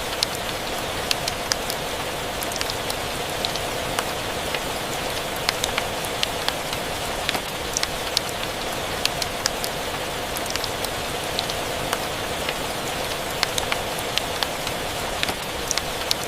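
Steady rain with scattered sharp clicks and ticks.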